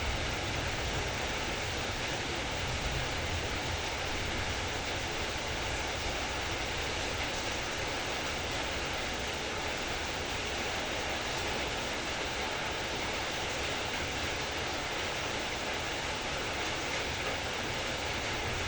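Heavy rain falling steadily, an even, unbroken rush of noise with no separate drops or other events standing out.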